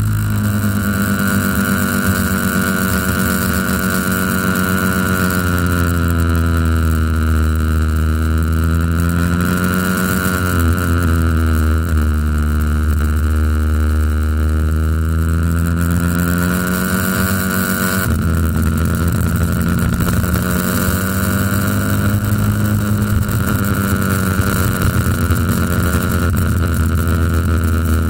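Motorcycle engine running, heard from a camera mounted on the bike, its note dipping and rising several times in the middle as the road winds down. A steady high whine runs along with it.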